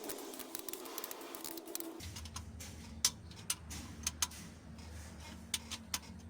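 Ratchet wrench clicking while the camshaft bearing cap bolts on a 4D56 diesel cylinder head are tightened. A fast run of clicks comes first; after about two seconds come separate single clicks over a low hum.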